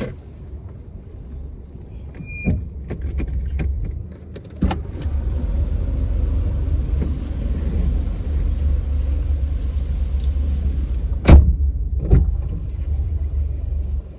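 Car heard from inside, a low steady rumble, with a few light clicks early on, a steady hiss for several seconds, then two sharp thumps near the end, the first the loudest.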